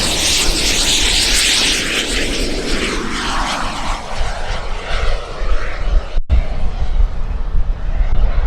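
Turbine engine of a large RC jet model (Carf Mephisto V2) flying past, its jet whine and rush dropping in pitch as it goes by, over a heavy rumble of wind on the microphone. The sound cuts out for an instant about six seconds in.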